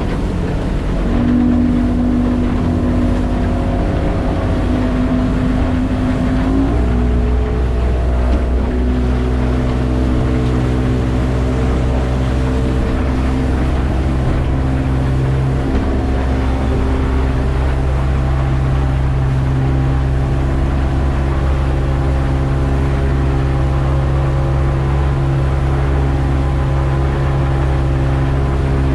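Mercury 225 Optimax two-stroke V6 outboard driving the boat under way, its pitch stepping up about six and a half seconds in as the throttle opens, then running steadily.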